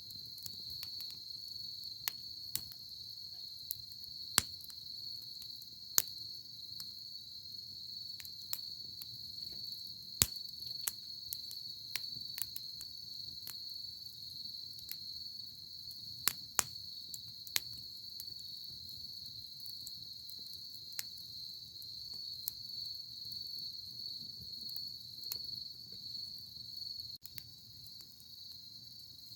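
Wood campfire crackling, with irregular sharp pops, over a steady high trill of crickets.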